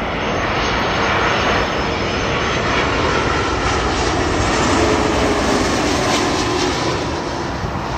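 Twin turbofan jet engines of an Airbus A330 airliner flying past: a steady roar that builds to its loudest about halfway through and then begins to fade.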